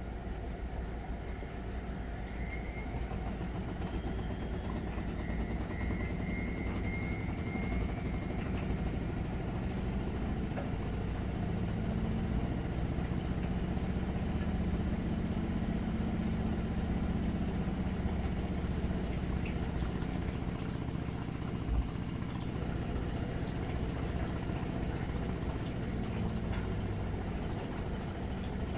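Miele Novotronic W921 washing machine on a spin: a low drum rumble under a motor whine that climbs over several seconds, holds steady, then eases down slowly near the end.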